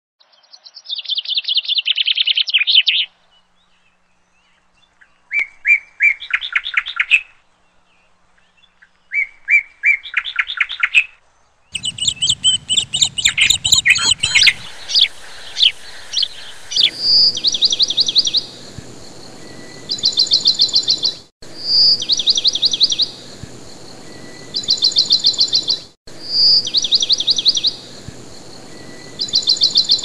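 Songbird singing: rapid trilled phrases about two seconds long, with pauses between them at first, then over a steady hiss with extra chirps, the same trill recurring every four to five seconds.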